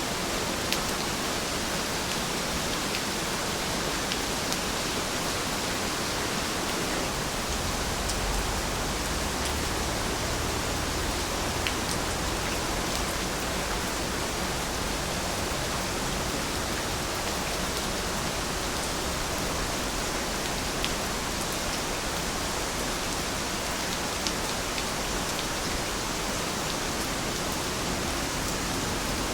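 Steady rain falling, an even hiss with occasional single drops ticking through it. A soft low rumble swells in for a few seconds about eight seconds in.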